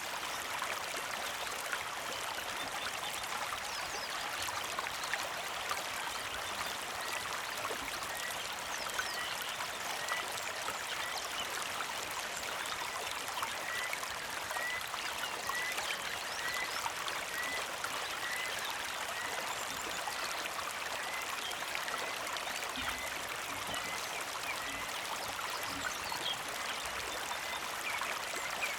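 Small mountain creek flowing and trickling steadily. Through the middle stretch a bird repeats a short chirp, a little more than once a second.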